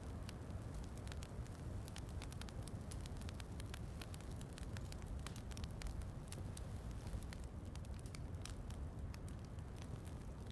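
Fireplace crackling with frequent sharp, irregular pops over a steady hiss of falling rain and a low, even rumble.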